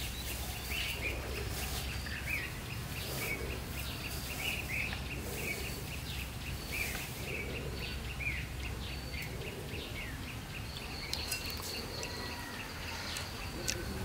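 Outdoor garden ambience: small birds chirping in short, repeated calls, with a thin high steady tone joining near the end over a low steady hum.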